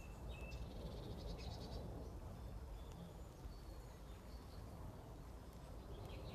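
Small birds chirping and twittering, with a quick run of rapid chirps about a second in, over a low steady outdoor rumble.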